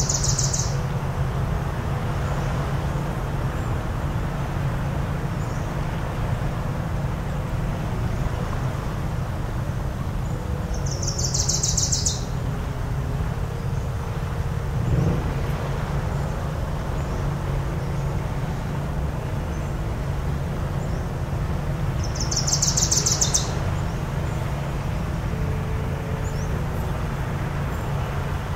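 Seashore ambience with a steady low hum, and a bird giving a short high trill three times, about eleven seconds apart.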